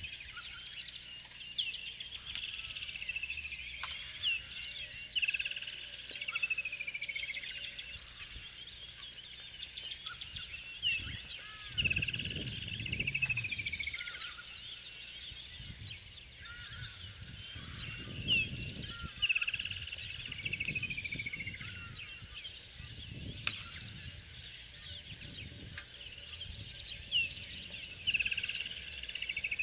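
Birds calling: a whistled call that slides down in pitch repeats every second or two, among other chirps. A low, muffled noise swells up now and then.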